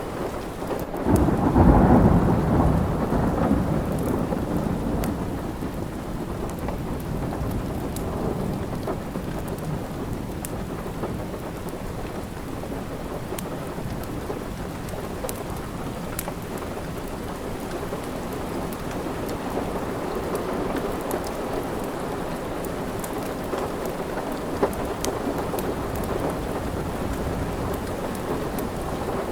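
Steady rain, with a rumble of thunder that swells about a second in and fades over the next few seconds. Sharp crackles from a wood fire sound here and there.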